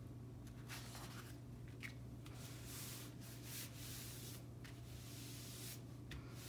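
Faint rustling and rubbing of paper and cardstock being handled and pressed down, in several soft swishes, over a steady low hum.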